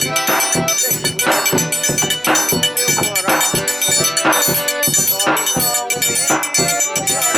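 Forró pé-de-serra played live on instruments, with a steady dance beat and a melody over it.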